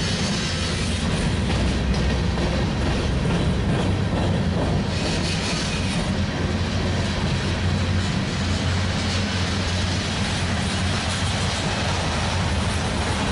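Freight train tank cars rolling past close by: a steady, unbroken noise of steel wheels running on the rails, heaviest in the low end.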